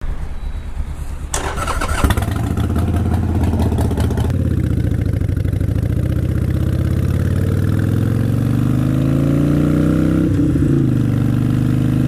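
Motorcycle engine running, its revs climbing steadily for several seconds, with a brief drop about ten seconds in like a gear change, then holding steady. A rushing noise lies over it from about one to four seconds in.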